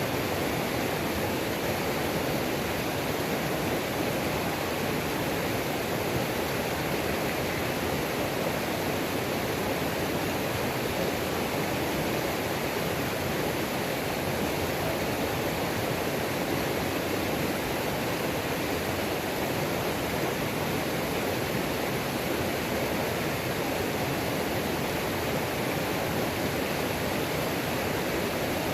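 Waterfall on a mountain creek: a steady, even rush of falling and tumbling water, unchanging throughout.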